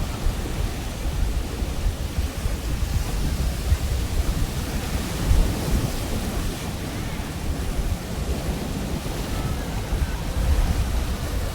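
Pacific Ocean waves breaking and washing on the beach, with wind rumbling on the microphone.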